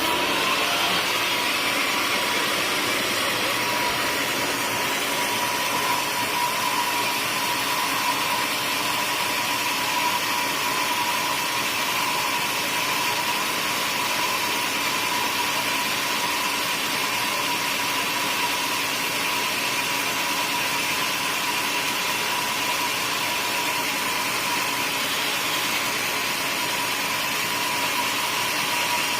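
Sawmill machinery running steadily, an even mechanical noise with a constant high whine.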